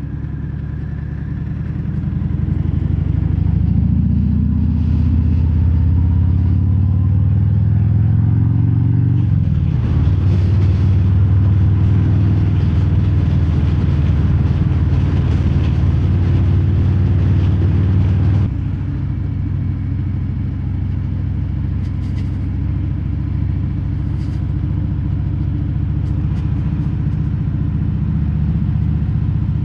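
Harley-Davidson Fat Bob V-twin through Vance & Hines Hi-Output slip-on mufflers with no quiet inserts, heard from inside the rider's helmet. The exhaust note climbs in pitch under acceleration and drops suddenly about nine seconds in, as at a gear change. It then pulls steadily with wind rush, and a little past halfway the level falls off as the throttle closes and it runs on lower.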